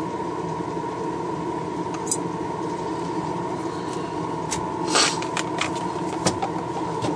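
An airbrush air compressor running with a steady hum, with a few small clicks and a short hiss of air about five seconds in.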